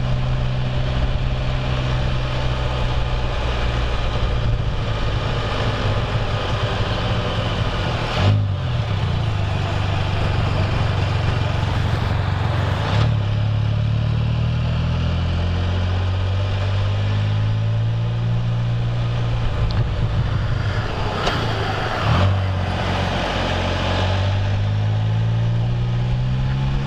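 Can-Am Spyder three-wheeled motorcycle engine running at low town speeds, its pitch dropping and climbing as it slows and speeds up, rising steadily near the end as it accelerates. Wind and road noise rush over it throughout.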